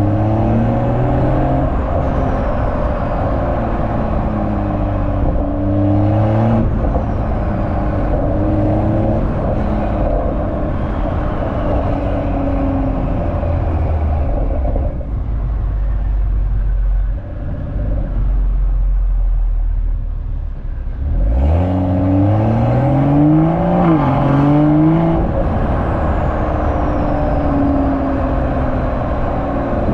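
BMW M340i's B58 turbocharged inline-six exhaust during pulls. The engine note rises and steps down at each gear change, then settles to a low rumble for a few seconds. About two-thirds through it climbs sharply again from low revs, with a brief dip at a shift.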